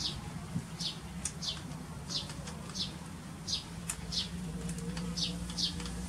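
A small bird calling over and over with short, high chirps that each fall in pitch, coming in loose pairs about every half second.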